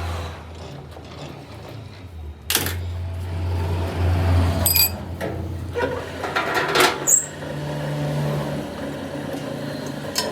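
Metal work on a steel truck rim: a steady low machine hum under a sharp metallic clank about two and a half seconds in, a ringing strike near the middle, and scattered clinks and scrapes of metal.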